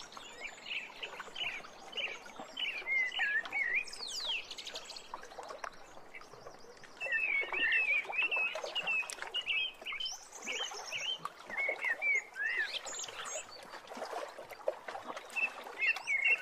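Wild birds chirping and singing, a steady stream of short, quick chirps and warbling notes, busiest in the middle.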